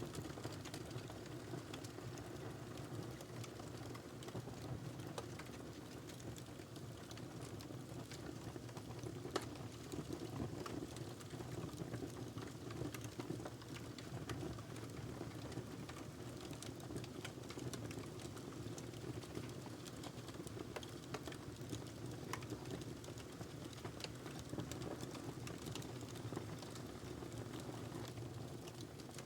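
Wood fire burning in a fireplace: a steady low rumble of flames with frequent small crackles and pops, and one sharper pop a little past nine seconds in.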